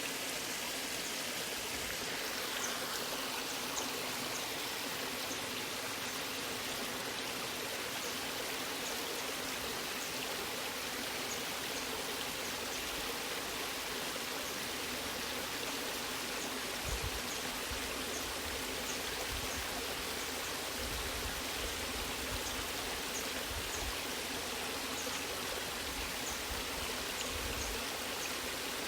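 A waterfall's water rushing steadily and evenly, with faint short high ticks recurring about once a second and occasional low rumbles in the second half.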